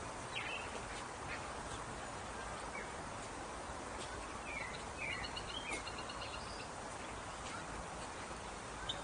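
Birds calling: a few short, scattered calls and squawks over a steady background hiss.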